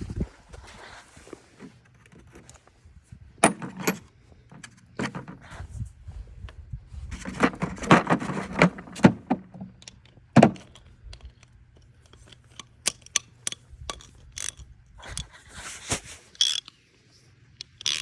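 Irregular metallic clinks, knocks and scraping, like tools and metal parts being handled and set down, with a longer stretch of scraping and rattling in the middle and a heavier knock shortly after.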